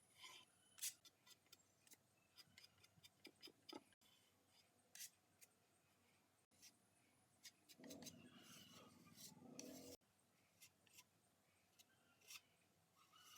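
Near silence with faint scattered clicks, and a short stretch of soft rubbing or scraping about eight seconds in that stops abruptly.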